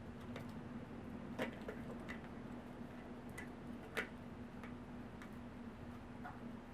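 Scattered faint clicks and light taps from hands working yarn around a pinecone to tie it on, the two loudest about one and a half and four seconds in, over a steady low hum.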